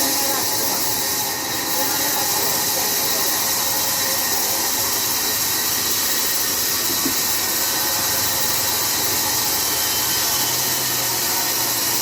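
Sawmill band saw running, a steady high-pitched hiss with no breaks.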